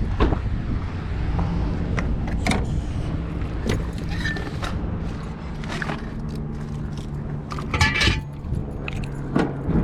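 Semi truck's diesel engine idling steadily, with scattered light clinks and knocks of things being handled close by and a louder clatter about eight seconds in.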